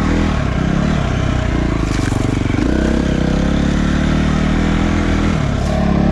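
Dirt bike engine running under varying throttle while riding a trail. Its note shifts up and down early on, holds steadier through the middle, and drops near the end.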